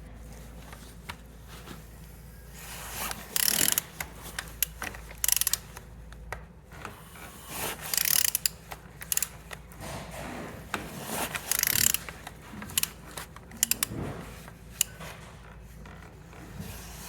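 Engine being turned over by hand: irregular mechanical clicking and ratcheting with several short scraping bursts as the crankshaft rotates. It turns freely, a sign the engine is not seized.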